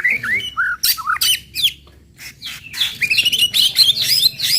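White-rumped shama (murai batu) singing its fighting song: loud, varied whistled notes and sharp calls. There is a short pause about two seconds in, then a fast run of chattering notes.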